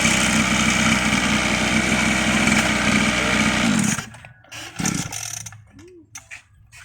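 A 110cc mini motocross bike engine running at high, steady revs. It cuts off abruptly about four seconds in, leaving only a few faint scattered knocks and sounds.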